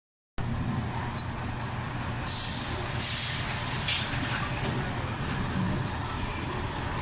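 Steady low hum of a large stationary vehicle, with a loud hiss of released compressed air, like an air brake, about two seconds in, and a few sharp clicks.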